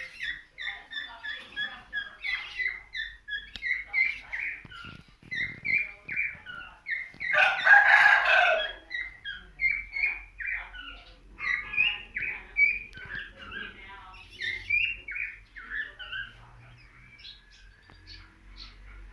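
Birds chirping in quick repeated short notes, with one louder, harsher call lasting about a second, about eight seconds in. The chirping thins out near the end.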